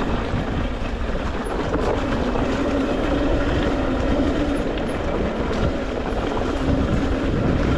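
Electric dirt bike riding along: a steady motor whine that drifts a little in pitch, over a broad rushing, rattling noise of the ride.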